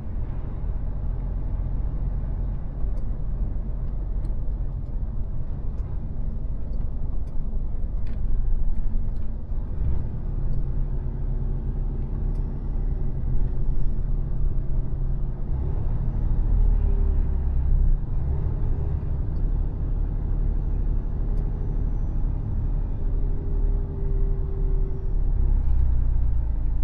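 Mercedes-Benz Actros truck running downhill, a steady low diesel and road rumble, with a faint whine coming in about halfway through and fading near the end.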